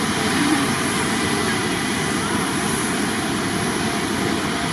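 Jet airliner engines running, a steady, even rushing noise with a thin high-pitched whine over it.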